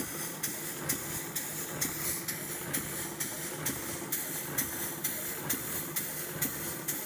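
Sanderson model steam beam engine running steadily, with sharp regular beats about twice a second over a continuous steam hiss.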